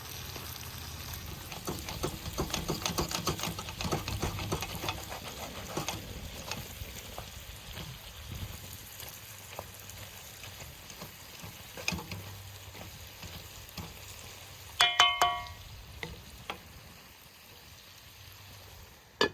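Food frying and sizzling in a pan, with a utensil stirring and scraping in quick strokes for the first few seconds and scattered clinks after. A short, loud, high-pitched squeal about three quarters of the way through.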